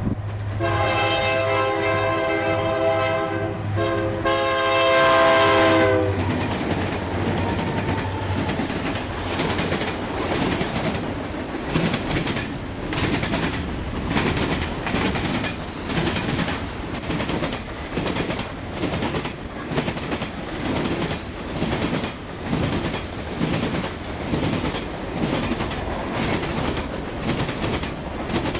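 Locomotive air horn sounding two blasts, the second dropping in pitch as the train passes, followed by the train rolling by with a steady, rhythmic clickety-clack of wheels over rail joints.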